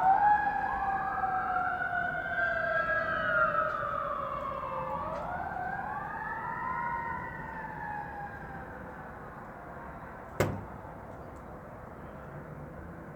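Emergency vehicle siren wailing, its pitch rising and falling in overlapping sweeps and fading away over about nine seconds. A single sharp knock comes about ten seconds in.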